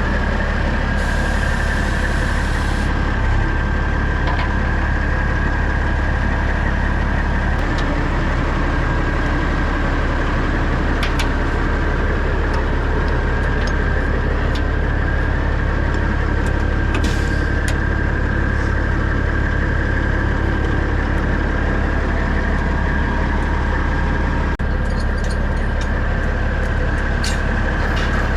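Heavy diesel engine running steadily at a constant speed, with a steady high whine over the low rumble and a few light clicks.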